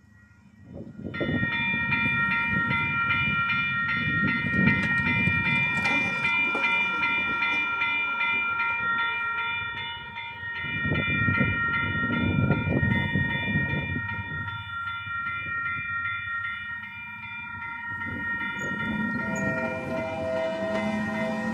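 Union Pacific GE AC6000CW diesel locomotive's air horn blowing a long, loud chord from about a second in, over the rumble of the passing train. Near the end the horn gives way to lower tones.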